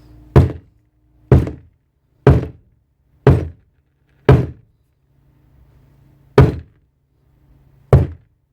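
Seven heavy knocks, about one a second with a longer pause after the fifth, as the tool's stripped barrel is struck to free the striker, which its swollen O-ring holds stuck in the bore.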